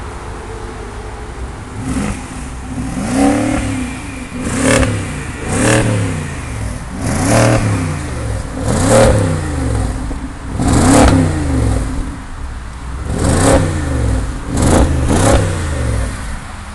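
BMW X6 engine idling, then revved in about nine short blips, each rising in pitch and falling back to idle, heard close at the exhaust tailpipe.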